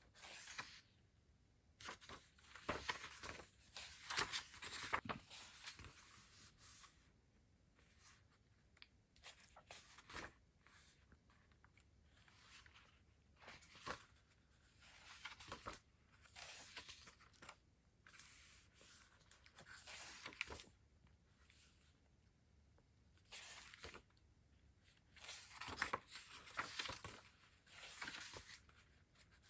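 Stationery packaging being handled and opened by hand: quiet bursts of rustling and tearing, with a few small clicks and taps between them.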